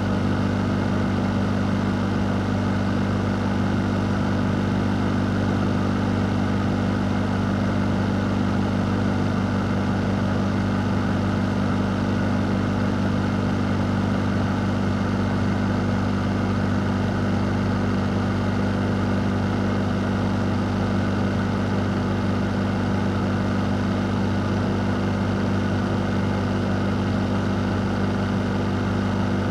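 Fan running steadily: a constant low hum with an even rush of moving air over it, unchanging throughout.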